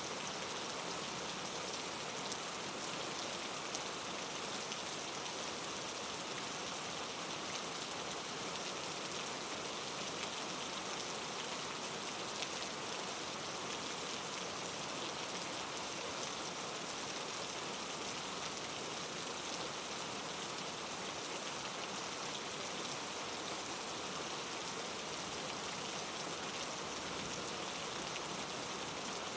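Steady, even hiss of precipitation falling on a surface, with a few faint ticks and no let-up.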